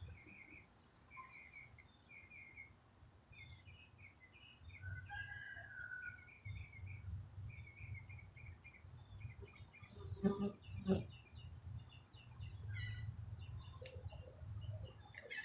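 Small birds chirping faintly in the distance, short chirps repeated over and over, over a low rumble that comes in a few seconds in. Two short knocks about ten and eleven seconds in.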